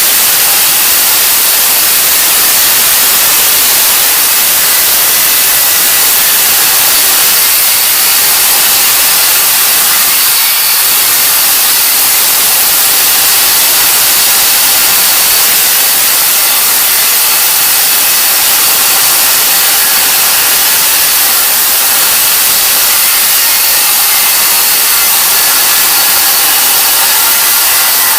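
Battery-powered saw cutting steadily through the old countertop around the sink: a loud, unbroken hiss of cutting with a faint high motor whine.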